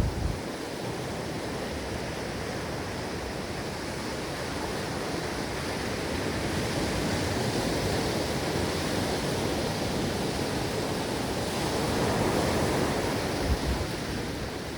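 Ocean surf washing on a beach: a continuous rush of breaking waves that swells and eases, with a brief low bump of wind on the microphone at the start and again near the end.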